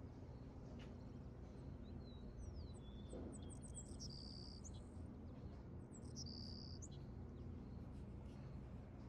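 Faint, low, steady hum with a run of short, bird-like chirps and whistles in the middle.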